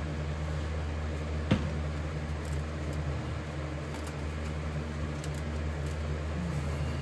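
A steady low machine hum, with a single sharp click about one and a half seconds in.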